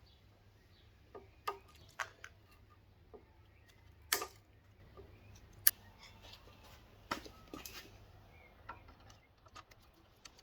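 Scattered light clicks and knocks, about a dozen at irregular intervals, of hand tools and small metal parts being handled while a minibike is taken apart, over a faint low hum.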